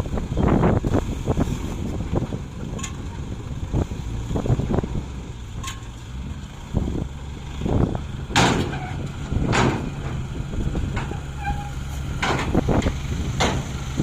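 Truck engine running steadily, with a cluster of knocks early on and several sudden loud bangs in the second half.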